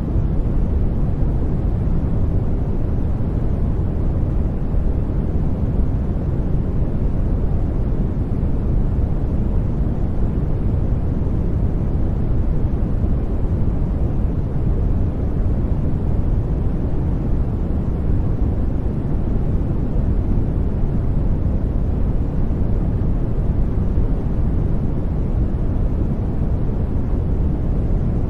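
Steady, unchanging sleep noise: an even, deep rushing hiss, heaviest in the low end, with nothing else in it.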